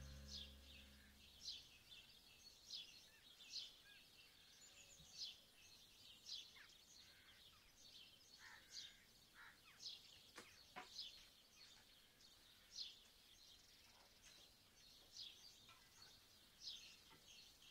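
Faint, repeated short bird chirps, one every half-second to second, over a quiet background, with two soft clicks about ten seconds in.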